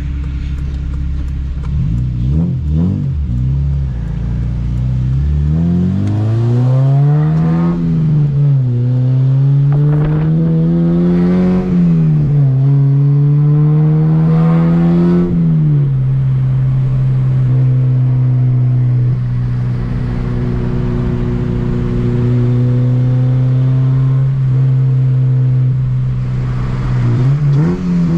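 2007 Honda Civic Si's 2.0-litre i-VTEC four-cylinder accelerating hard through three gears. The engine note climbs and drops at each upshift, then settles into a steady cruise and starts climbing again near the end.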